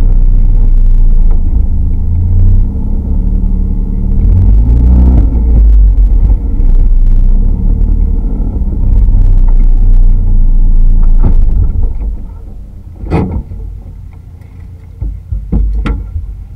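Spec Miata's four-cylinder engine droning loud from inside the car, its pitch rising and falling about five seconds in. About twelve seconds in the drone drops to a much quieter level, with two sharp knocks near the end.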